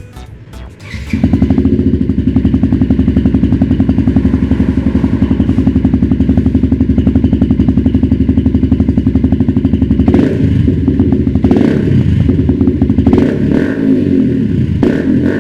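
Small single-cylinder sport bike's engine through an aftermarket full-system exhaust, starting up about a second in and idling with an even, rapid exhaust pulse. From about ten seconds in it is blipped several times in short revs.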